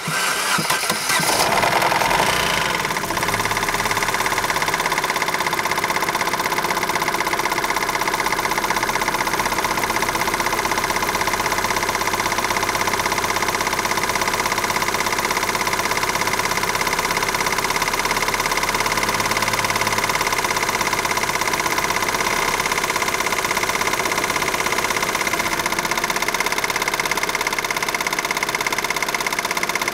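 Opel Astra H's 1.6-litre four-cylinder petrol engine (Z16XER) starting at once, running up for a couple of seconds, then settling into a steady idle. The engine is burning oil heavily through a cracked piston in the fourth cylinder.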